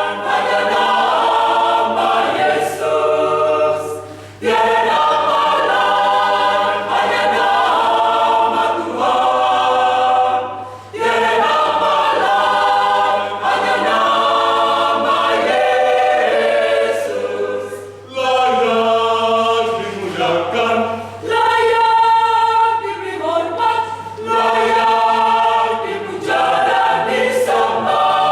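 Church choir singing an Indonesian gospel song in several voice parts, in long phrases with short breaks between them.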